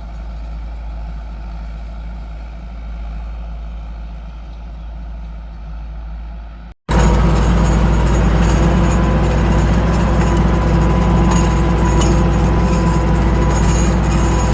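Landini 9080 tractor's diesel engine running steadily. About seven seconds in the sound drops out for a moment and comes back much louder and closer.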